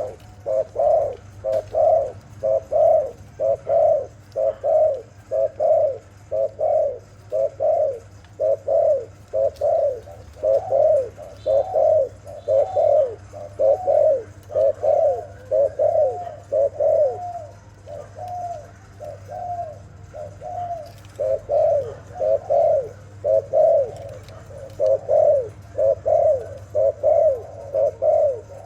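A dove cooing over and over in short coos, mostly in quick pairs about a second apart, softer for a few seconds in the middle before picking up again.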